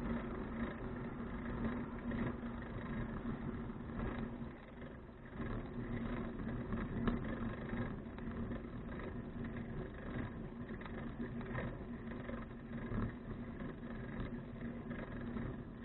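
Steady rumble and hiss of a touring bicycle riding on the road, picked up by an action camera, with a faint constant hum running through it.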